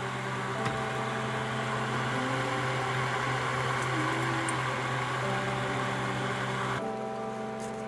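A steady low mechanical hum with an even rushing noise over it, cutting off near the end.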